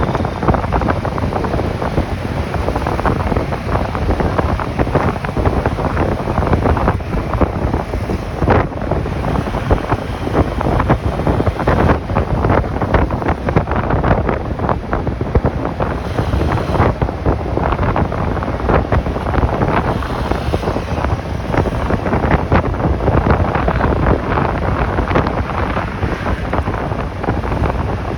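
Wind buffeting the microphone of a camera riding on a moving motorcycle, a loud steady rumble with constant flutter, with the motorcycle's engine and road noise under it.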